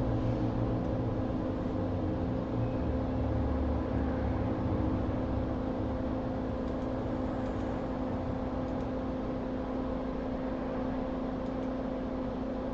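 Steady whir of a small electric fan or blower at a repair bench, with a constant hum, a little louder in the first couple of seconds.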